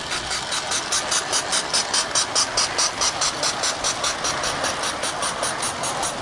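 Small live-steam garden-railway locomotive chuffing along the track: even, hissy exhaust beats at about four to five a second, loudest in the middle as it passes close, then easing off.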